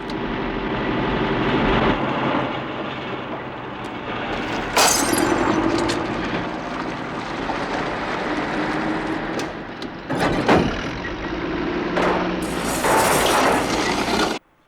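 Heavy tractor engine running under load, with loud crashes of things being smashed and broken about five, ten and thirteen seconds in. The sound cuts off abruptly near the end.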